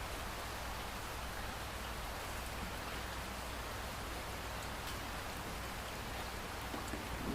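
Steady rain falling, an even hiss with a few faint drop ticks. Near the end a low rumble of thunder begins to swell.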